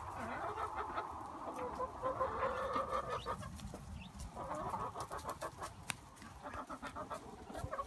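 A flock of domestic hens clucking in soft, repeated calls, with a few scattered sharp clicks among them.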